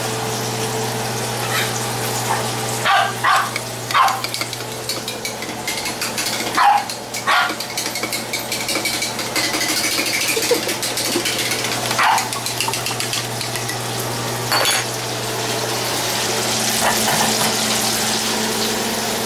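Food frying in hot oil, a steady sizzle over a low steady hum, with a few short sharp sounds scattered through.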